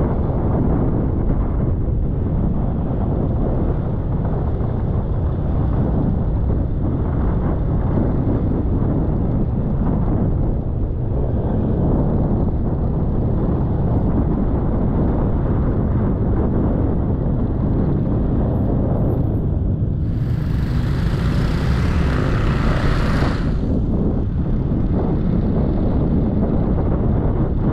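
Motor scooter on the move: wind buffeting the microphone over the steady low running of the bike's engine. About twenty seconds in, a sharper hiss comes in for a few seconds and cuts off suddenly.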